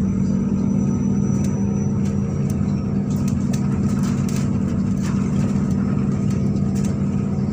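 Diesel engine of a MAZ-103 city bus running steadily while under way, heard from inside the passenger cabin as a constant low drone. From about a second in, light clicks and rattles of the bus body and fittings come through.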